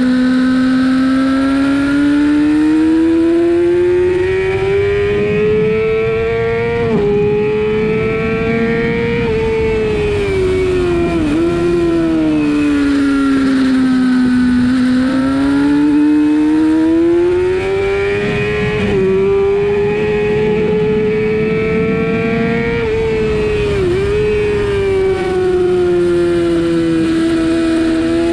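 Sportbike engine at racing speed, its pitch climbing under acceleration and falling off again, with several brief dips where the rider shifts gear, over steady wind rush.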